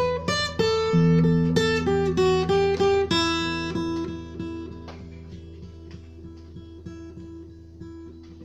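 Acoustic guitar playing a slow instrumental tune in plucked notes. About three seconds in, it drops to softer, evenly repeated notes.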